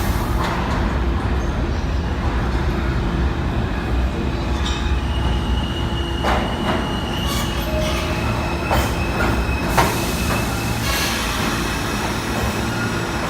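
New York City subway train running along the track with a steady low rumble. Thin, high wheel squeal comes and goes through the middle, with a few sharp clicks over rail joints.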